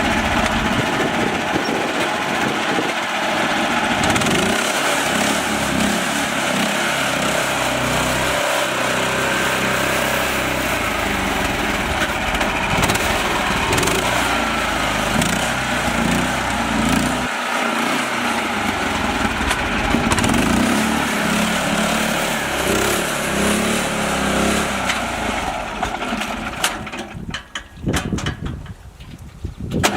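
Small mini-tractor motor running steadily. It drops away unevenly for a couple of seconds near the end, then picks up again.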